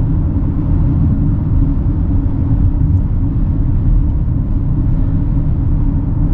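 A car driving on the road: a steady, loud rumble of engine and tyres with a constant low hum.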